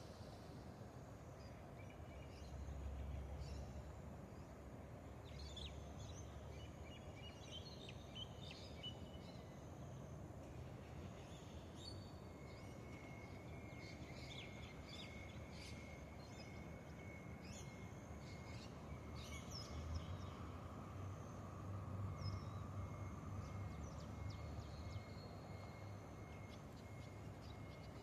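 Birds chirping and calling in short, scattered notes over a low, steady background rumble. A thin, steady high whine comes in a little before halfway and carries on.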